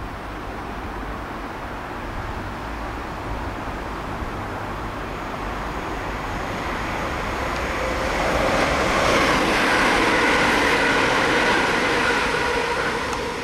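Electric multiple-unit passenger train passing on the main line. Its running noise builds, is loudest from about eight to twelve seconds in with steady whining tones on top, then eases off.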